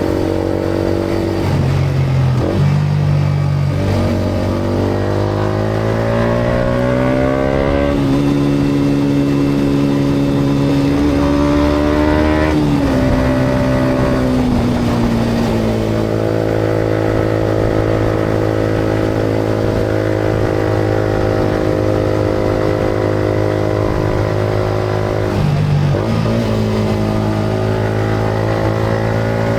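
Yamaha MT-125's single-cylinder four-stroke engine running through a GPR aftermarket exhaust while riding. The engine pulls up through the revs twice, with a gear change between, then drops back about halfway through and holds a steady cruise, with brief dips at shift points near the start and near the end.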